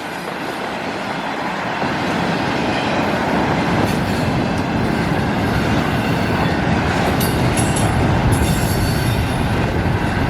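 Double-stack intermodal container cars of a freight train rolling past at close range: a steady rumble and rattle of steel wheels on the rails.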